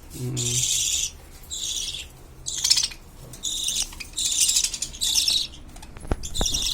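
Small pet birds chirping in a series of short, high-pitched bursts, about six in a few seconds.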